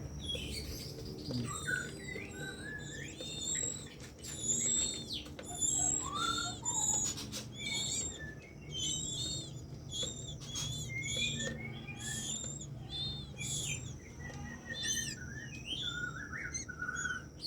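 Birds chirping and whistling: a dense run of short, varied calls that rise and fall, with a steady high-pitched whine in the background for part of the time.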